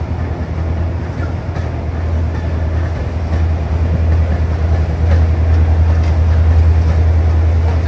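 Steady low rumble of a moving passenger train heard from aboard the coach, growing a little louder about five seconds in.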